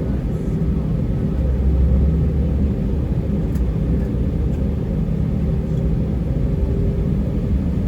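Cabin noise inside an Airbus A320-232: its IAE V2500 engines and airframe make a steady low rumble, heard from a window seat.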